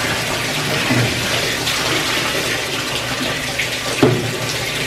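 Water running and splashing into the tub of a top-load washing machine as it fills on a hot cycle, steady throughout, with two dull knocks, one about a second in and one near the end.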